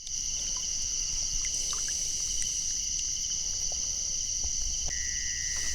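Insects, crickets by their sound, chirring in a steady high chorus. A lower-pitched chirring joins about five seconds in, with a few faint ticks.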